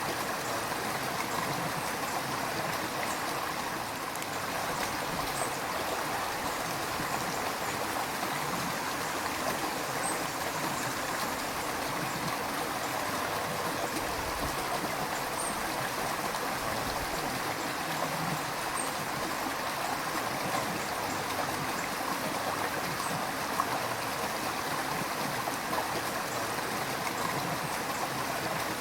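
River water running over stones, a steady rushing and gurgling with no pauses.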